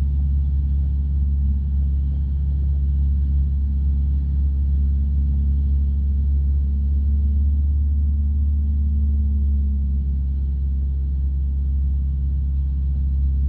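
Single-engine light aircraft's piston engine and propeller running steadily: a loud, even low drone with no change in power.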